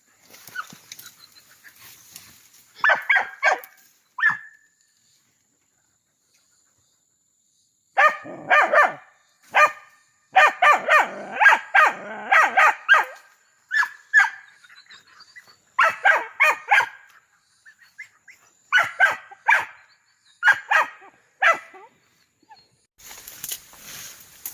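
Dog barking in several short bouts with pauses between, barking at a snake it has found up a tree.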